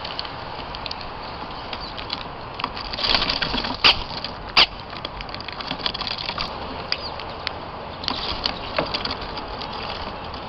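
Birds at a feeder: scattered light taps and clicks over a steady hiss, with two sharper knocks about four seconds in.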